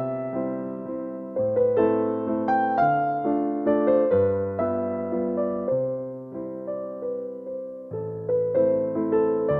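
Slow, gentle keyboard music on a piano-like instrument: notes and chords struck and left to fade, over a low bass note that changes about every one and a half seconds.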